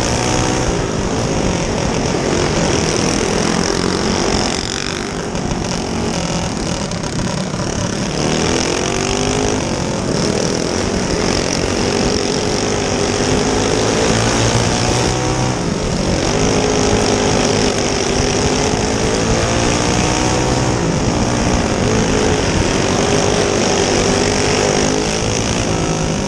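Go-kart engine racing around a small dirt oval. Its pitch climbs on the straights and drops off into the turns about every five seconds.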